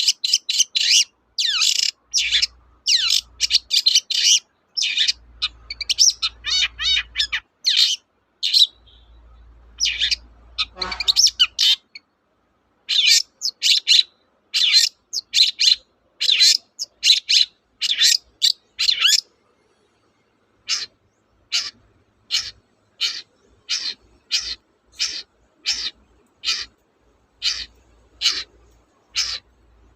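Long-tailed shrike (cendet) singing a loud, fast song of sharp, high chattering notes. In the second half the song settles into an even run of short, sharp notes about two a second.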